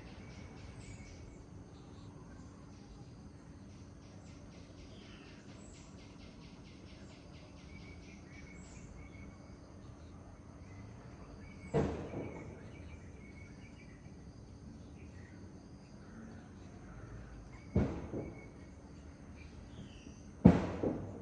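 Forest birds chirping and singing over a steady low background wash, with a fast pulsing high trill through the first several seconds. Three sharp knocks, the loudest sounds, come once near the middle and twice near the end.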